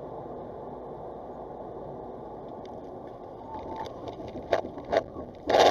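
Steady rumble of a car driving on the road, as picked up by a dashcam. Sharp knocks start after about three and a half seconds, and a loud bang comes near the end.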